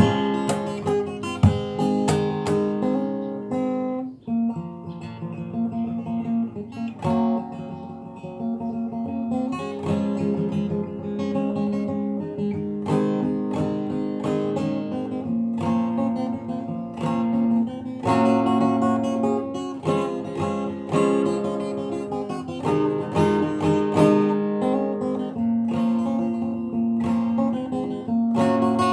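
Solo acoustic guitar played fingerstyle: a melody with bass notes and strummed, plucked chords, with sharp percussive attacks.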